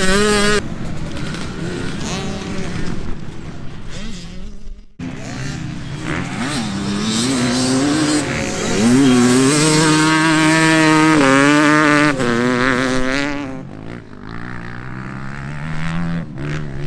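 Vintage motocross bike engines revving up and down through the gears, with an abrupt cut about five seconds in. The loudest stretch, from about nine to twelve seconds in, is a bike held at high revs.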